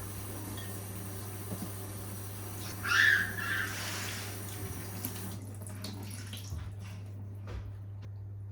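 Kitchen tap running into a sink, shut off about five seconds in, over a steady low hum. A short, louder sound comes about three seconds in.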